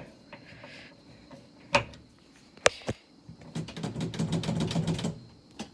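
Car door hardware being worked on: a knock, two sharp clicks, then about a second and a half of rapid ratcheting clicks over a low hum.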